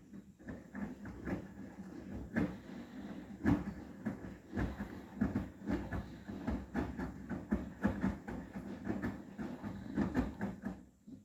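Arçelik 9120M washing machine drum turning in a cotton 30 °C wash, cushions tumbling inside with many irregular soft thumps and knocks. The drum stops suddenly near the end.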